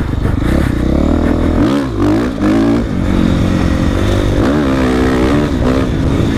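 Dirt bike engine under way, revving up and falling back several times as the rider works the throttle.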